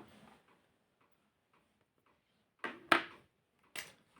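Mostly quiet, with three short clicks or scrapes a little past the middle, the sound of drawing materials being handled.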